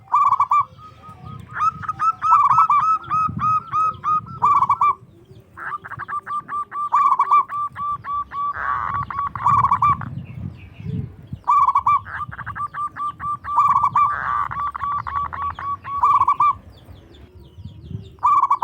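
Zebra doves (perkutut) calling in loud runs of rapid staccato notes, each run lasting a second or two, one run following another with short gaps.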